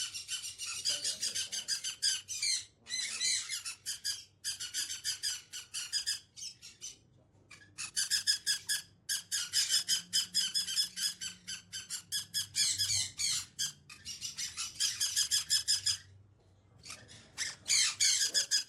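Parrot squawking in long runs of rapid, harsh, evenly repeated calls, broken by a few short pauses.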